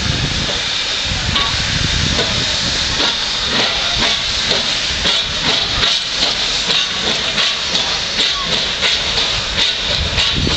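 Steam hissing steadily from an SLM-built rack steam locomotive, with many short knocks running through it from a few seconds in.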